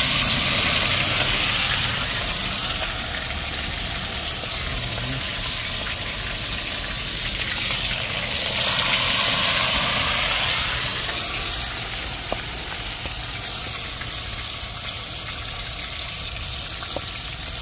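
Seasoned chicken backs sizzling hard as they go into a pot of hot oil to fry. The sizzle starts suddenly, surges again about nine seconds in, then settles to a steady frying hiss.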